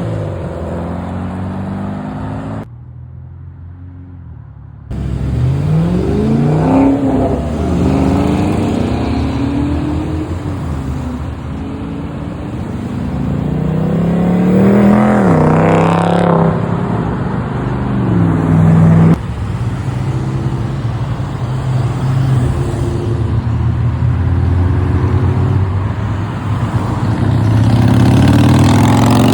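Car engines revving and running, the pitch climbing and falling several times. The sound changes abruptly a few times, as if cut between clips.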